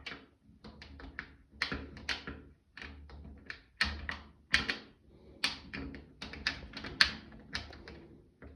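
A long mortise key clicking and knocking in a door's mortise lock as it is pushed in and worked: a string of irregular sharp metallic clicks and taps.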